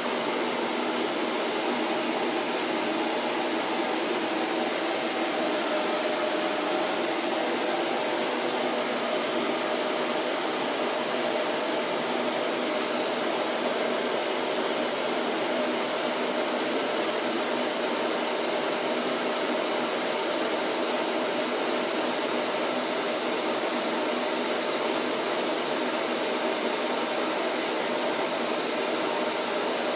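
Vacuum cleaner running steadily with an even whooshing rush and a faint motor hum, unchanging throughout.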